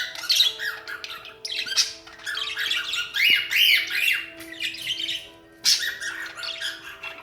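Young cockatiels chattering and squawking in quick, overlapping chirps that sweep up and down in pitch, with a short pause about five seconds in, as the juveniles practise whistling. Faint steady lower tones run underneath.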